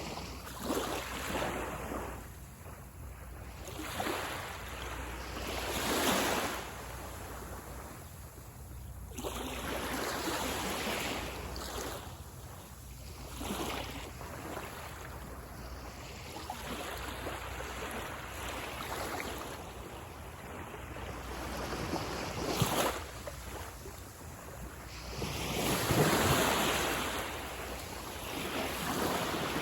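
Sea waves breaking and washing up a beach, swelling and falling every few seconds, with a low rumble of wind on the microphone beneath.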